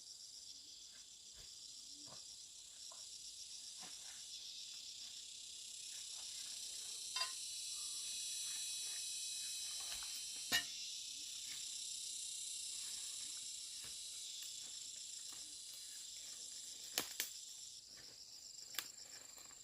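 Steady chorus of insects chirring in fast pulses, with a few sharp clicks or snaps, the loudest about halfway through.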